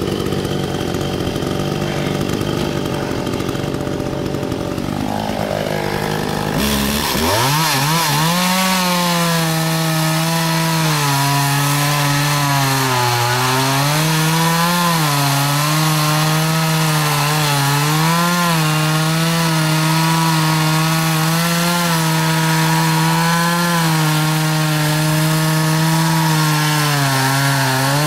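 Chainsaw cutting pecan logs: it runs at a lower pitch at first, then revs up about seven seconds in, its pitch dipping and recovering again and again as the chain works through the wood.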